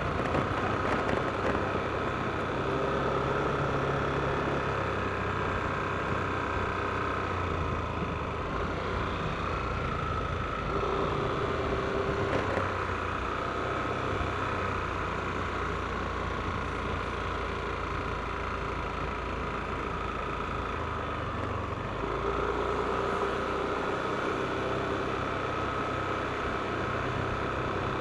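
Yamaha NMAX scooter's single-cylinder engine running steadily on the move, heard from on board with road noise, with faint whining tones that shift in pitch a few times.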